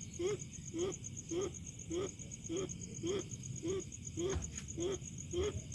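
An unseen animal, which the uploader takes for a sewer rat, gives a short low call over and over, about two calls a second, each note rising and falling. Crickets chirp steadily behind it.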